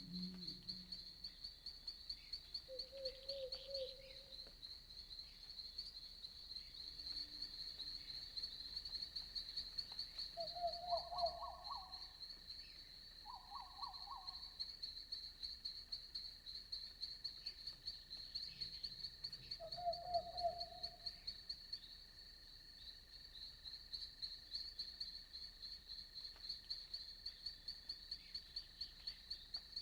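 Night chorus of insects such as crickets, keeping up an unbroken high-pitched pulsing trill. Short, lower trilled frog calls of about a second each break in four times.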